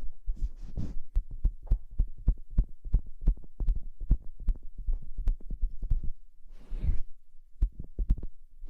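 Close-miked ASMR rustling and rubbing right on the microphone: a fast, irregular run of soft, bassy thumps with brief hissy rustles between them.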